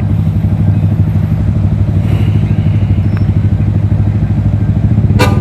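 Yamaha R15 V3's 155 cc single-cylinder engine running steadily at low revs through a Daytona Evolution aftermarket exhaust, with a deep, bassy, evenly pulsing note. A brief sharp sound comes near the end.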